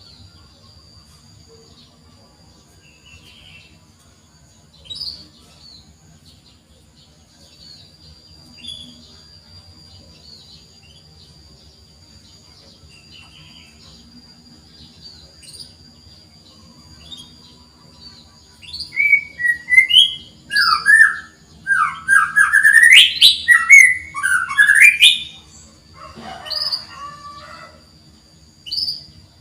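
Domestic canary chirping: scattered soft chirps, then about eighteen seconds in a loud run of quick rising whistled chirps lasting some seven seconds, ending in a short buzzy trill. A faint steady high whine sits underneath.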